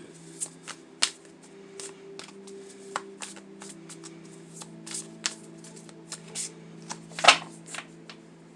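A deck of tarot cards being shuffled by hand: a quick run of crisp card snaps and flicks, with one louder slap about seven seconds in, over a low steady drone.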